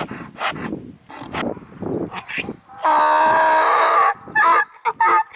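Recorded farm animal calls: a run of short, choppy calls, then one long, loud pitched call about three seconds in that lasts about a second, followed by more short calls.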